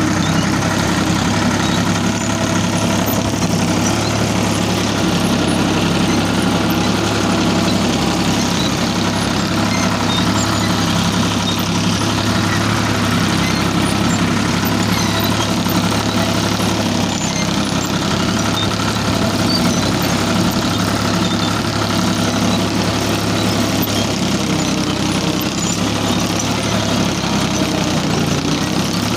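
Ford 3600 tractor engine running steadily at an even speed, with no change in pitch or level.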